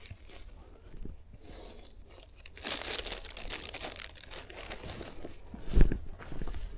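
Crinkling, rustling handling noise while a birch bolete mushroom is being picked, with one short thump a little before the end.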